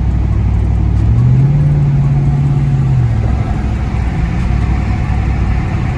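Truck's V8 engine roar under acceleration: the engine note climbs about a second in, holds, then eases back down about three seconds in, over steady road noise.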